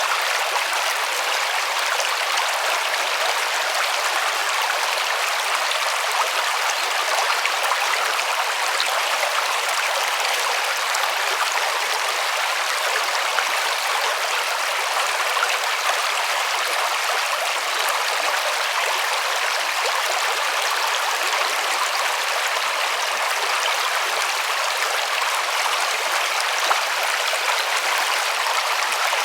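Small river flowing over stones: a steady, even rush of water.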